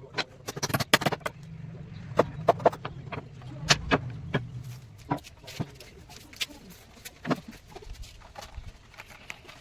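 A run of irregular sharp knocks and taps, like hand tools striking wood, coming thickest in the first half, over a low hum that fades out about five seconds in.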